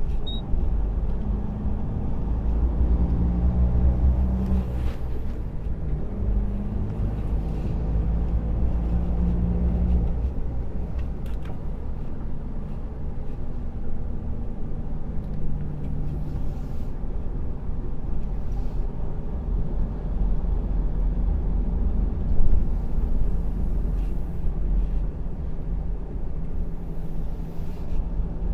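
Loaded semi-truck's diesel engine running at low speed with road rumble, its low hum shifting pitch a few times.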